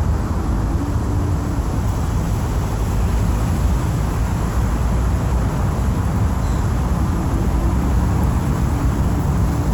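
Steady city traffic: a continuous low rumble of passing car and bus engines and tyres, with no single event standing out.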